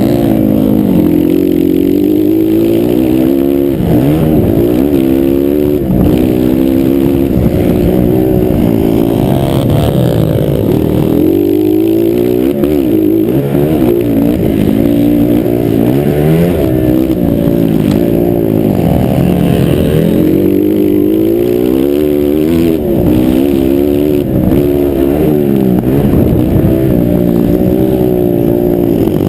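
Motocross motorcycle engines revving hard, their pitch climbing and dropping over and over as the bikes accelerate, shift and back off around the track.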